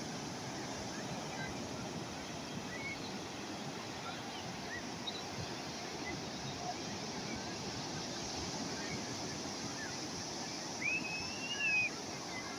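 Calm sea waves washing steadily on the shore. A few faint short high chirps come and go, and near the end a louder, arched high call sounds twice in quick succession.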